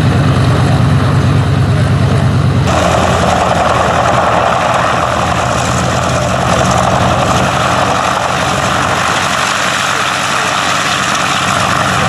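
Steady drone of an Antonov An-2's nine-cylinder radial piston engine and propeller. About three seconds in, the sound changes suddenly: the low engine hum falls back and a rushing noise higher up becomes the loudest part.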